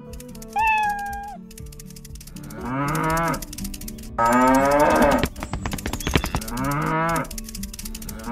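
Cows mooing three times in long, wavering calls, the middle one loudest; about half a second in, a single falling cat meow. A light rhythmic music track runs underneath.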